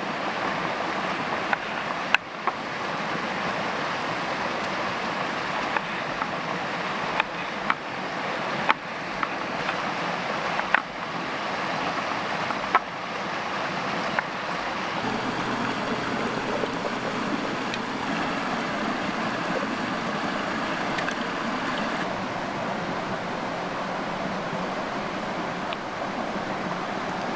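Creek water rushing steadily, with a scattering of sharp clicks over the first half.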